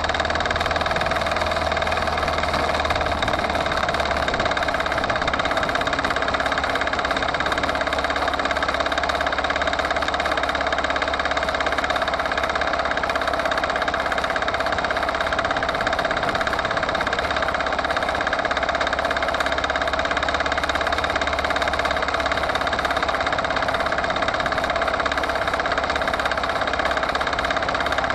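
Forte 135E walk-behind tractor's engine running steadily as the machine drives along.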